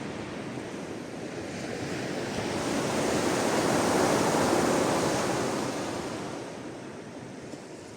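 Sea waves washing onto the shore: a single swell that builds to a peak about halfway through and then recedes.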